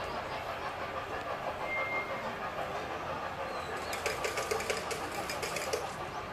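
A machine or engine running steadily, with a run of rapid, even clicking starting about four seconds in and stopping near the end.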